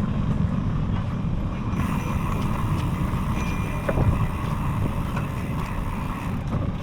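Wind rumbling on the microphone of a camera riding along on a moving bicycle, over steady road and traffic noise, with a short knock about four seconds in.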